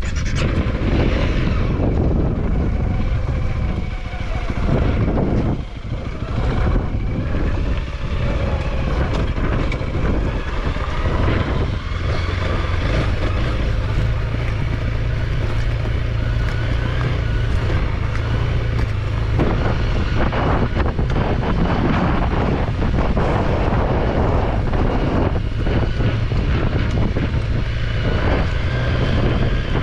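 Honda CRF300L's single-cylinder engine running while riding, with wind buffeting the microphone. The engine note steadies into an even drone partway through.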